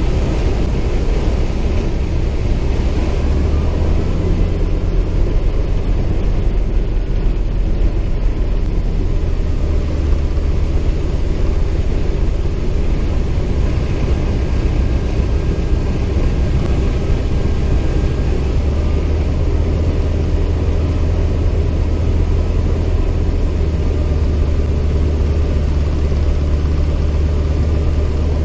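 CAC Winjeel's Pratt & Whitney R-985 Wasp Junior radial engine running steadily with a deep, low rumble, its level shifting slightly a few times.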